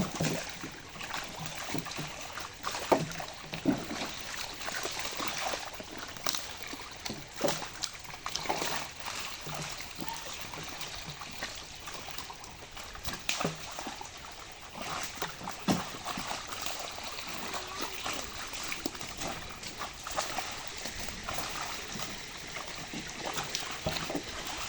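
Pond water splashing and sloshing, with many irregular short, sharp splashes.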